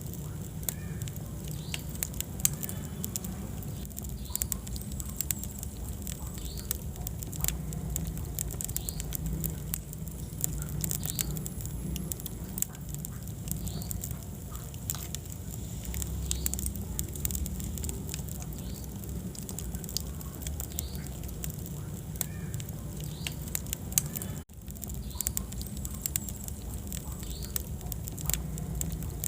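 Wood fire burning in a fireplace: frequent sharp crackles and pops over a steady low rumble of the flames. The sound drops out for an instant about three-quarters of the way through.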